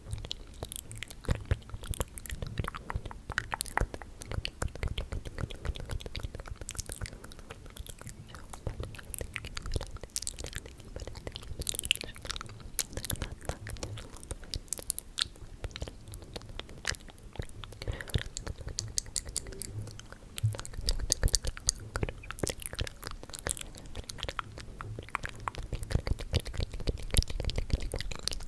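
Close-up ASMR mouth sounds: a dense, irregular run of quick clicks and smacks from lips and tongue.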